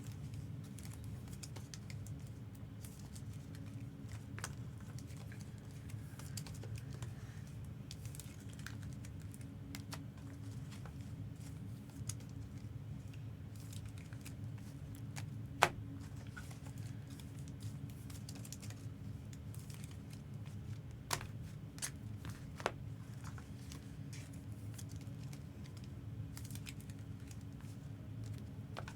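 Faint handling of Pokémon trading cards and plastic card sleeves and cases: scattered light clicks and crinkles over a steady low hum. There is one sharper click about halfway through and three more a few seconds later.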